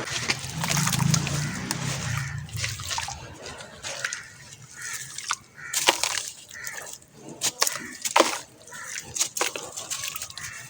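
Sand-cement shapes crumbling in water: a wet crackling and trickling with scattered sharp cracks, the loudest about six and eight seconds in.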